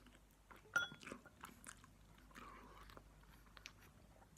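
Faint chewing and mouth noises of someone eating instant noodles, in small scattered clicks and smacks. A sharp click with a short ring comes about a second in.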